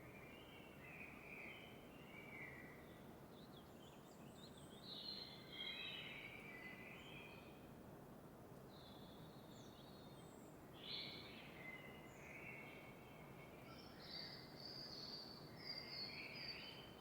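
Faint birdsong: several birds singing short chirping phrases in bursts every few seconds over a low, steady background hiss.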